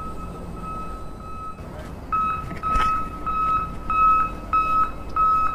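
Electronic beeper sounding a steady, even beep about three times a second, like a toy vehicle's alarm sound, louder from about two seconds in. A single knock near the middle.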